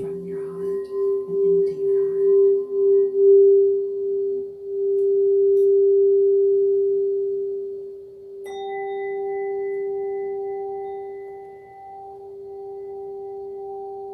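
Singing bowl ringing with a steady tone that wobbles in loudness at first and then evens out. About eight seconds in, a higher-pitched bowl is struck and rings on over it.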